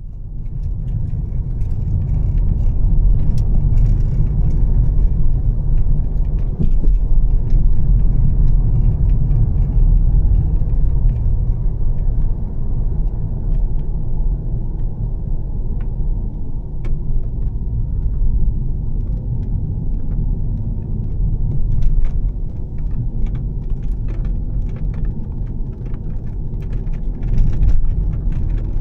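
2013 Volvo S60 T6's turbocharged 3.0-litre straight-six with a Heico aftermarket exhaust, running as the car is driven: a steady low rumble.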